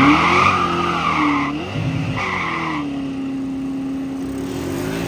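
A car accelerates hard and its tires squeal in two bursts, the first about a second and a half long and the second shorter. After that the engine holds a steady high pitch.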